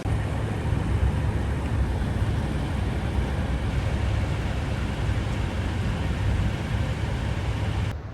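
Semi truck driving at speed: a steady low rumble with road noise.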